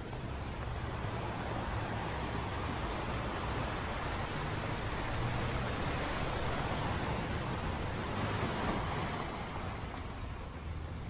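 Sea surf washing steadily: an even hiss with a low rumble beneath it, easing slightly near the end.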